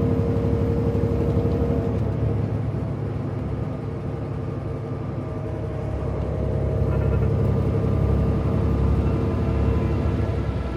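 Peterbilt semi truck's diesel engine and tyres running at highway speed on a wet road, heard from inside the cab: a steady low drone that eases off a few seconds in and swells again.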